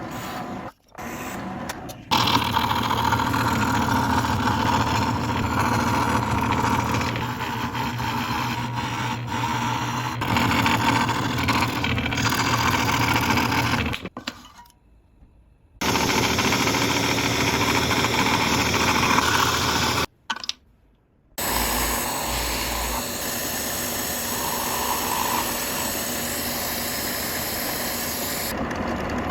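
A woodworking power tool runs steadily while working wood, in several stretches separated by brief silent breaks.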